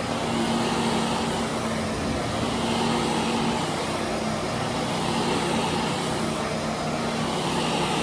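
Carpet-cleaning machinery running steadily: a continuous motor hum over a wide, even hiss.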